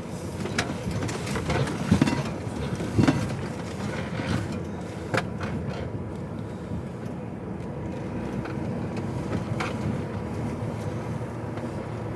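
Lorry cab interior on the move: a steady low diesel engine and road rumble, with several sharp knocks and rattles from the cab and trailer, the loudest about two and three seconds in.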